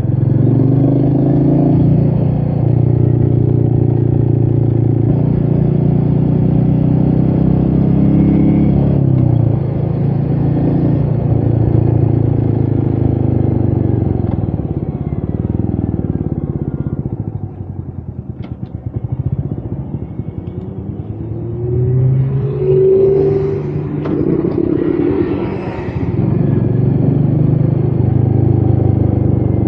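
Royal Enfield Meteor 350's single-cylinder engine running steadily on the move. About seventeen seconds in it drops in pitch and quietens, as if off the throttle, then picks up again from about twenty-two seconds.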